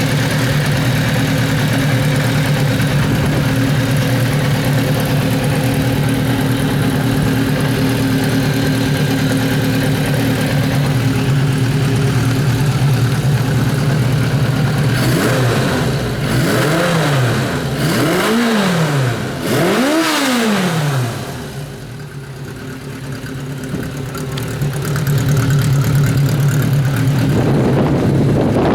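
Kawasaki Z500 (Z500FX) racer's inline-four engine idling steadily, then blipped three times in quick succession about halfway through, each rev rising and falling cleanly. It then sounds quieter for a few seconds before the steady idle returns near the end. The engine runs and revs up well.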